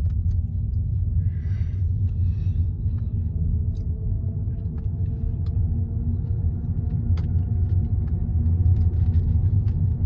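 Steady low rumble of a car in motion, heard from inside the cabin, with a few faint ticks.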